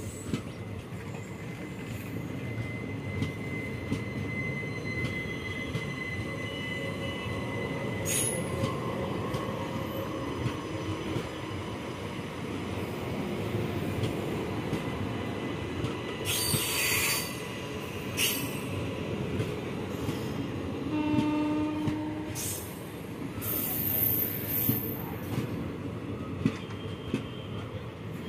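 Passenger express coaches rolling past at low speed as the train departs: a steady rumble of wheels on rail with repeated clicks from the rail joints, and a thin wheel squeal over the first several seconds. Bursts of hiss come now and then, and a short horn-like tone sounds about two-thirds of the way through.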